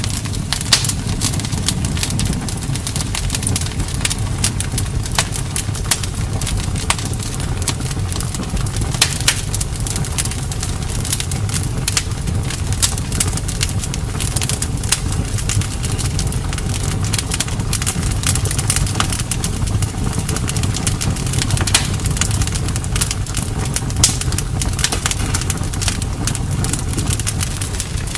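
Campfire crackling, with frequent sharp pops and snaps from the burning wood over a steady low rumble.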